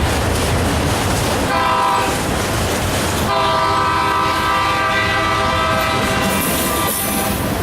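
Diesel locomotive horn sounding a chord of several tones: a short blast about a second and a half in, then a long blast of about four seconds. Underneath runs the steady rumble of the passing train.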